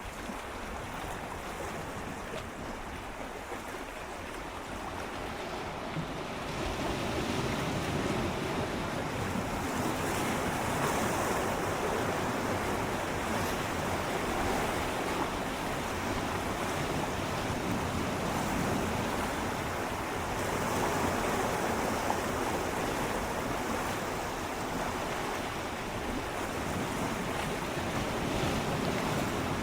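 Gentle sea waves swirling and lapping against shoreline rocks: a steady wash of water that grows louder about six seconds in, then swells and eases a few times.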